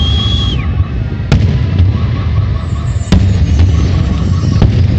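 Fireworks salute going off: a continuous deep rumble of bursts with sharp bangs about a second in, three seconds in and near the end. A high whistle falls away and stops in the first half-second.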